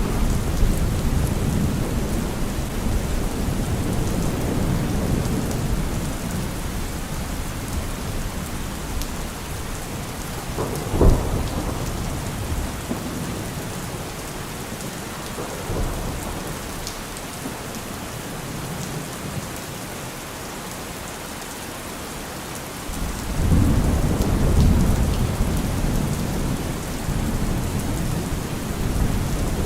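Heavy rain falling on a car roof, with thunder. A low rumble fades over the first several seconds, a sharp crack comes about eleven seconds in, and a new rumble starts suddenly near the end.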